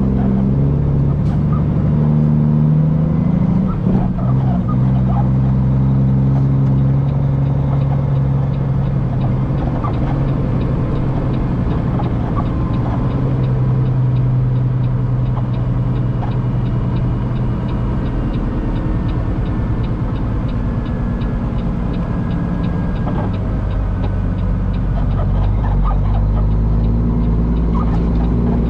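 Semi-truck diesel engine running steadily under way, heard from inside the cab, with its drone shifting in pitch and strength a few times.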